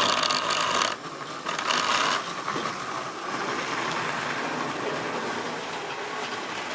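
Model railway train running on the track, its small electric motor and gears whirring. Loud for the first two seconds with a brief dip about a second in, then fainter and steady.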